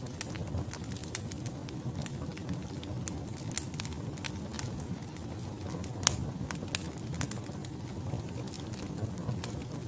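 Wood fire burning in a fireplace: a steady low rush of flames with irregular sharp crackles and pops from the logs, a louder pop about six seconds in.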